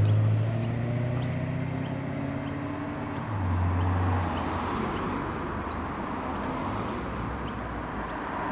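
Corvette's engine rolling past at low speed just after a rev, its exhaust note steady and easing off, with a short throttle blip about three seconds in before it settles to a low rumble.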